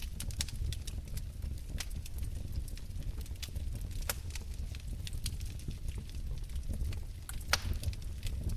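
Fire crackling in a fireplace: scattered sharp pops and snaps over a steady low rumble, with the loudest pop about seven and a half seconds in.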